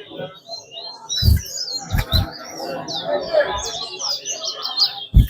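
Caged songbirds singing in a bird-racing song contest: repeated rapid, high chirping phrases. A few short low thumps come through, about a second in, twice near the two-second mark, and once near the end.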